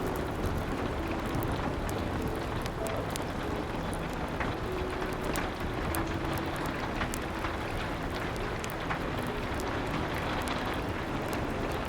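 Steady rain with the scattered sharp crackles and pops of a wood fire.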